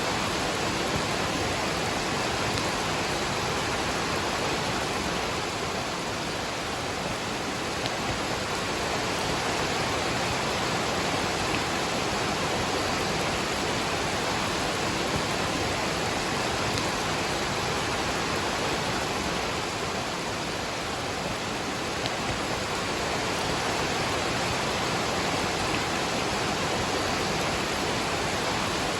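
A waterfall running, mixed with falling rain: an even, unbroken rushing noise.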